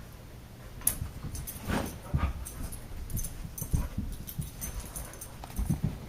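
Husky whimpering and making short vocal sounds while play-fighting with a cat, with irregular scuffling thumps and clicks of bodies and paws.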